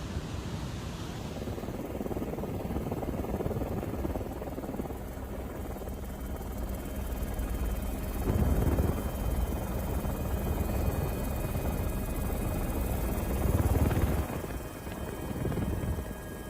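Steady rotor noise of an aircraft in flight, swelling louder about halfway through and again near the end.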